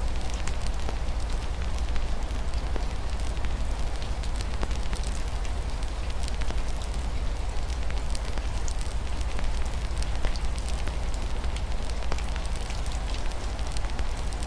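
Wood fire crackling with dense small pops and snaps over a steady hiss of rain and a constant low rumble.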